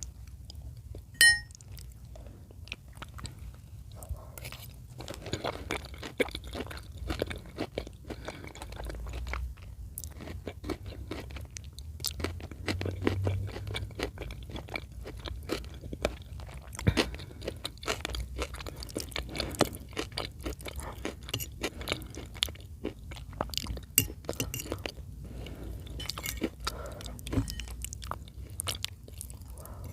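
Close-miked chewing of chicken in cream sauce, dense small mouth clicks. A single sharp, ringing clink about a second in.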